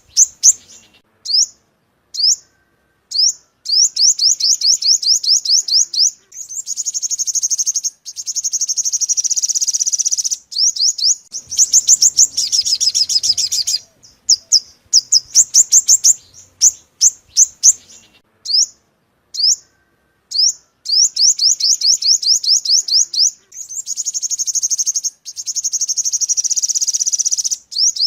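Looped lure recording of a yellow-bellied sunbird's song: rapid series of high, thin chips and trills alternating with longer buzzy trills of a few seconds each. The sequence repeats about every seventeen seconds.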